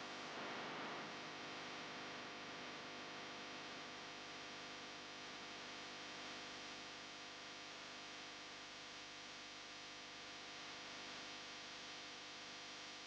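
Faint steady electrical hum with hiss. No music or speech is heard.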